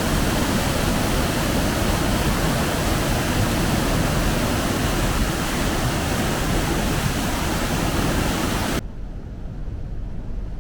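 Steady, loud rushing noise, even across all pitches, that cuts off suddenly about nine seconds in, leaving a quieter low background.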